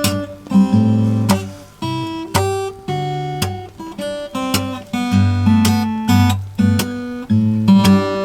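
Acoustic guitar being played: single plucked notes carry a melody over lower bass notes, each note ringing on.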